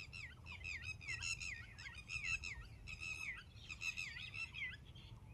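Small birds chirping in a quick run of short repeated notes, about three a second.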